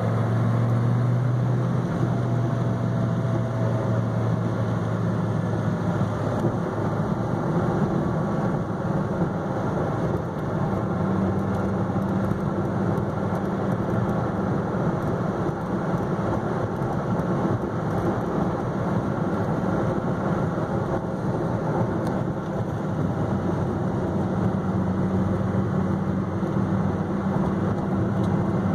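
Dodge Viper SRT10's V10 engine droning steadily under heavy tyre and road rumble while cruising, heard from inside the car. The engine hum shifts a little in pitch now and then as speed changes.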